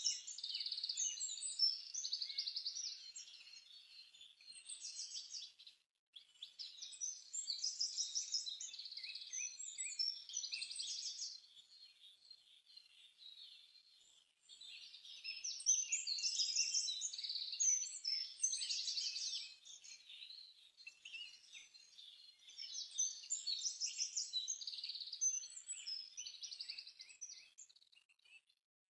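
Birds chirping and singing, a busy run of quick high calls that breaks off abruptly about six seconds in and again about fourteen seconds in, then fades out near the end.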